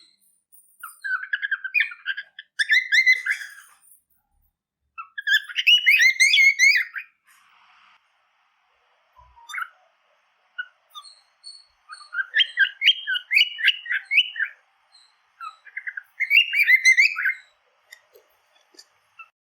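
Cockatiel chirping in rapid runs of short, jumping notes, each run lasting a second or two, with short pauses between runs.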